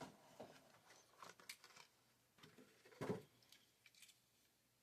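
Faint handling of toy blister packaging: soft scattered clicks and rustles of cardboard and plastic, with one louder knock about three seconds in.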